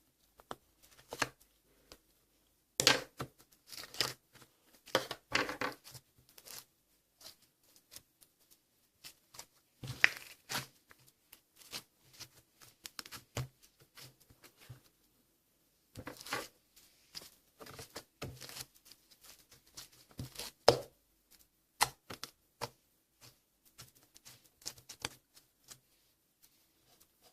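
Slime being squeezed, stretched and poked by hand: irregular sticky crackles and pops in bursts of a few seconds, with short pauses between.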